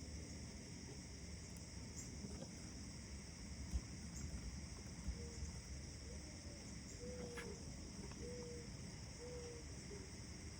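Outdoor morning ambience: a steady high insect trill over a low rumble, with two soft knocks a few seconds in. In the second half a bird gives five or so short, low calls, about one a second.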